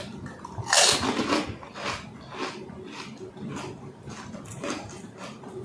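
Close-miked mouth sounds of eating pani puri: a loud crisp bite about a second in, then repeated crunchy chewing.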